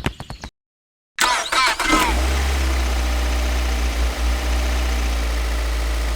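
An engine starts about a second in, after a short dead silence, then settles into a steady idle with a deep, even rumble.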